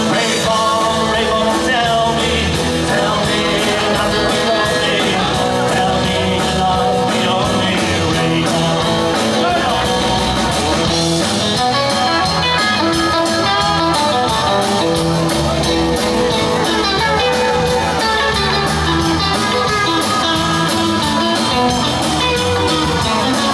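Live rock and roll band playing, with guitar to the fore.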